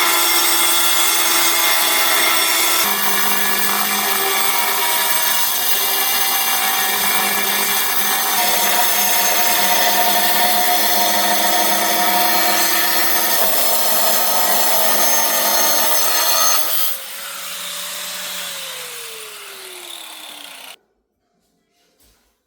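Electric power tool running under load with a steady whine, its pitch shifting a few times as the work changes. About 17 s in it lets off, and the motor winds down in pitch over a few seconds before stopping.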